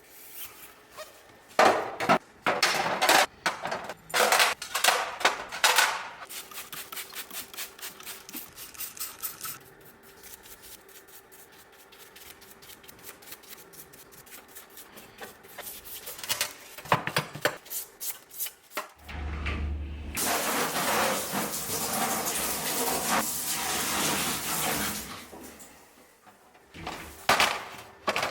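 Metal hand tools and steering rack parts clinking and knocking during workshop disassembly. A long run of fast, light ticks follows, then more knocks and about five seconds of steady hiss.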